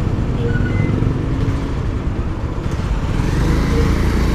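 Motorcycle engine running steadily while being ridden, with steady road noise.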